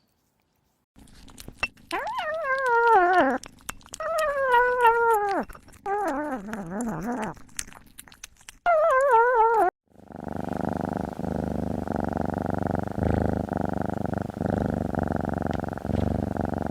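A cat meowing four times, long wavering calls that fall in pitch, followed from about ten seconds in by loud, steady purring.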